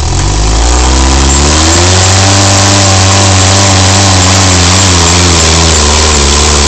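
Off-road vehicle's engine revving up: the pitch climbs over the first two seconds, then holds steady at higher revs with a slight waver, as if the engine is pulling under load.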